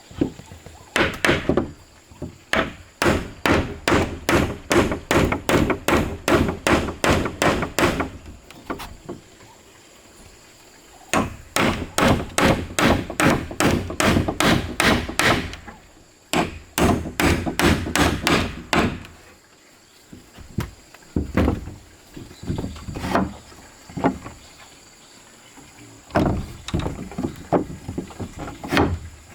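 Tool blows on wood: runs of quick, regular strikes, about three a second, broken by pauses, then slower scattered knocks near the end.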